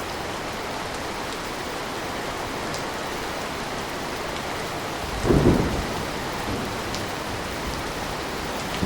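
Steady rain falling, with a short rumble of thunder a little past halfway, the loudest moment, before the rain goes on evenly.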